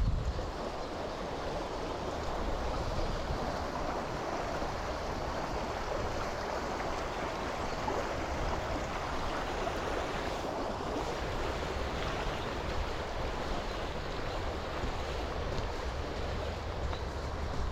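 Steady rushing of a river flowing close by, with a low wind rumble on the microphone that swells and fades.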